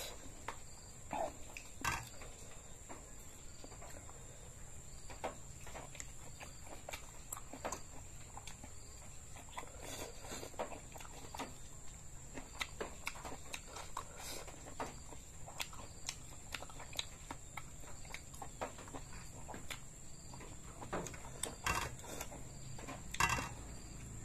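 Close-miked chewing of raw beef: irregular mouth clicks and smacks, several a second, with a few louder clicks near the end.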